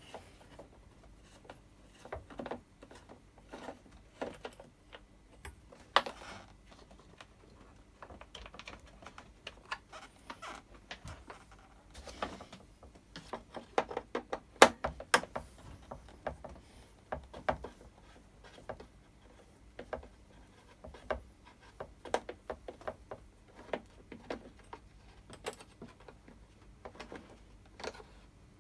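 A spanner working nuts loose on a Stihl BR600 blower's housing: irregular metal clicks and taps, sometimes in quick runs, with the loudest cluster about halfway through.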